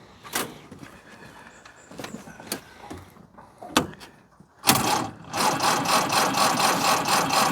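A few light clicks, then about four and a half seconds in the electric starter of a 1924 Austin Seven begins cranking its cold four-cylinder engine, a steady rhythmic churn that does not catch.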